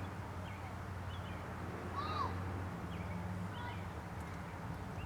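Wild birds chirping and calling: short repeated chirps throughout, with one louder rising-then-falling call about two seconds in, over a low steady hum.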